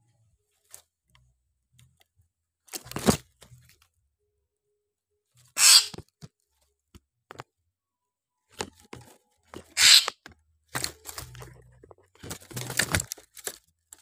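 A caged bird making short, harsh rasping sounds and scuffling against its netted bamboo cage, in several separate bursts. The loudest come about three, six and ten seconds in, with a busier cluster near the end.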